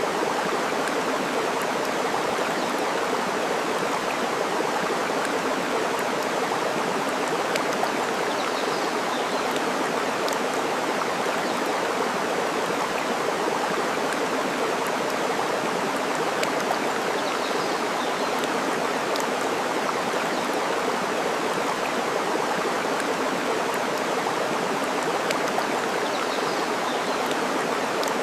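Steady rushing of flowing water, with faint scattered crackles from a burning wood fire. A faint high bird call comes about every eight or nine seconds.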